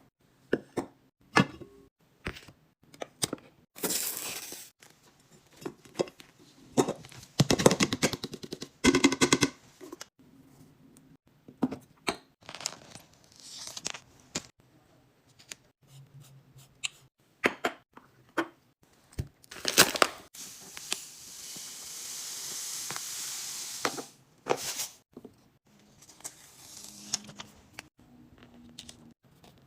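Groceries and plastic containers being handled: a string of clicks and knocks, with plastic packaging crinkling and tearing. A steady hiss lasts a few seconds about two-thirds of the way through.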